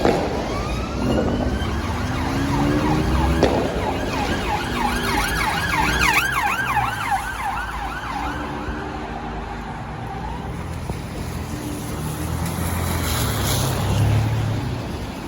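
Emergency vehicle sirens going past: a slow wail, then a fast yelp from about four seconds in that fades away by about ten seconds, over the rumble of the vehicles' engines and tyres.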